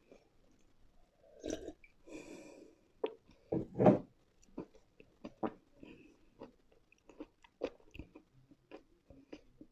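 A person biting and chewing crunchy dry mineral pieces, the eating chalk and clay of a crunch ASMR session, with irregular crisp crunches and the loudest bite about four seconds in.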